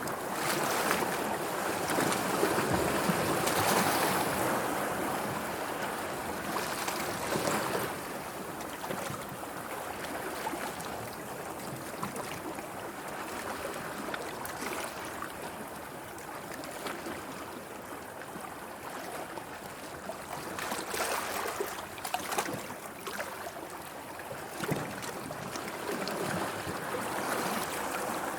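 Sea waves washing and splashing in a steady wash, surging louder a few seconds in and again briefly several times later.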